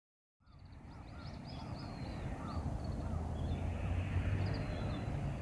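Birds calling in short repeated notes over a low outdoor rumble, fading in after a short silence.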